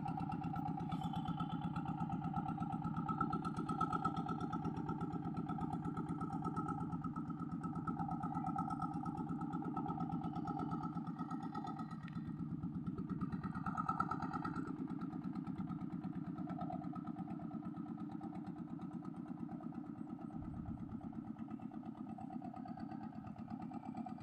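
Boat engine running steadily as the boat passes, slowly fading toward the end.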